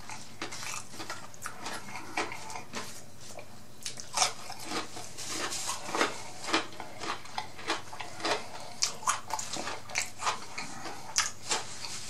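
A person chewing a mouthful of fried boneless chicken wing close to the microphone, with short irregular mouth clicks about two a second.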